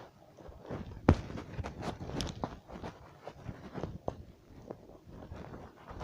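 Footsteps of a player walking over rough ground outdoors, uneven crunching steps with clothing and gear rustle, and one sharp knock about a second in.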